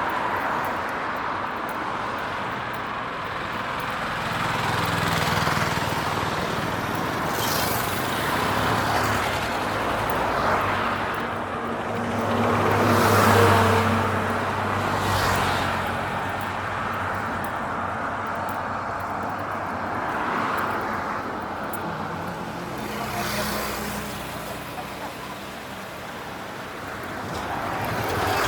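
Road traffic: a steady hum of vehicles with several cars swelling and fading as they pass, the loudest about halfway through.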